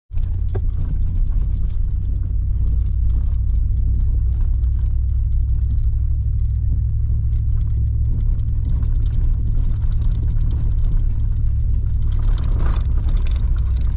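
4x4 truck driving through deep snow: a steady low rumble of engine and drivetrain that swells briefly near the end.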